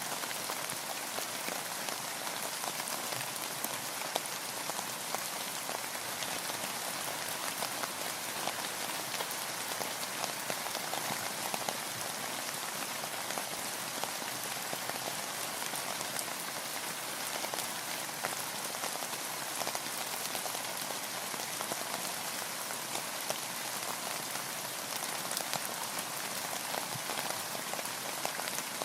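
Steady rain falling, with a dense patter of individual drops landing close by.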